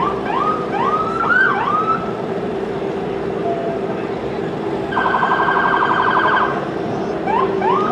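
Emergency vehicle siren giving short rising whoops, then a burst of fast-pulsing tone about five seconds in, and two more whoops near the end. These are siren blips of the kind that lead off a parade. A steady low hum runs underneath.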